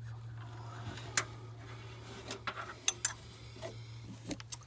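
A few sharp, irregularly spaced metal clicks and taps as a gear wrench and socket knock against parts deep in a minivan's engine bay while working at the serpentine belt tensioner arm, over a steady low hum.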